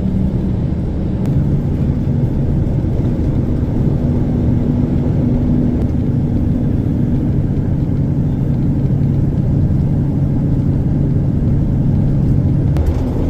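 Propane delivery truck driving on a snow-covered road, heard from inside the cab: a steady engine drone over a low road rumble. The engine note shifts about a second in and again near the end.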